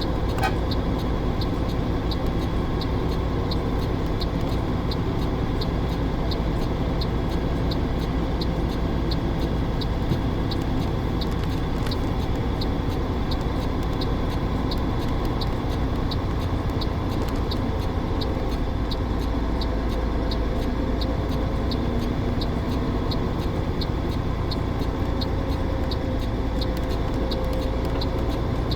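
Truck running steadily, heard from the cab, with a light tick repeating a little under twice a second throughout.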